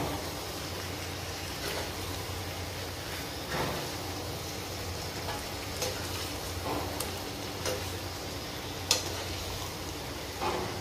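Chicken pieces and masala paste sizzling in a frying pan on high flame as they are stirred with a metal spatula, scraping with scattered clicks of the spatula on the pan, the sharpest about nine seconds in.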